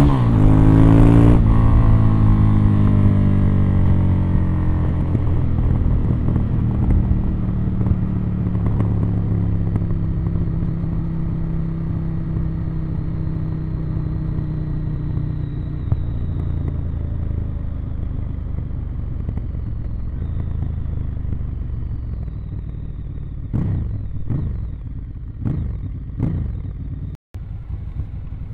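Ducati Monster 1100 EVO's air-cooled L-twin on its original exhaust, under way. The revs fall off over the first couple of seconds, then the engine runs fairly steady at lower revs, with a few short throttle blips near the end.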